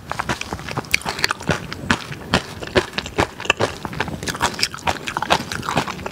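Close-miked chewing of a mouthful of curry rice: wet mouth clicks and smacks coming irregularly, several a second.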